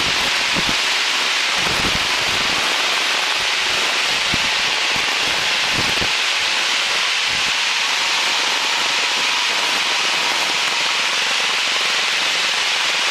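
Steady cabin noise of a small training airplane in flight, engine, propeller and airflow blending into an even hiss, with a few dull low bumps in the first half.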